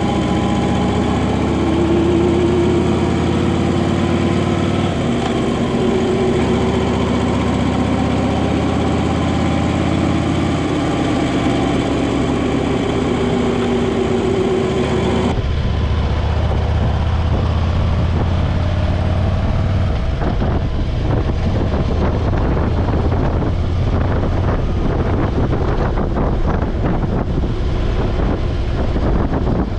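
Motorcycle engine running on the road, its pitch rising and falling with speed. About halfway through the sound changes abruptly to a lower, rougher engine drone mixed with gusty noise.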